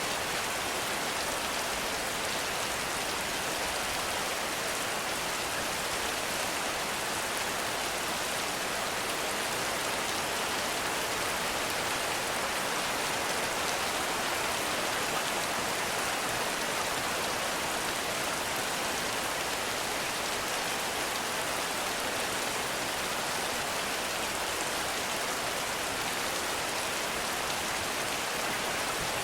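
Heavy rain falling steadily, an even hiss without breaks or distinct drops.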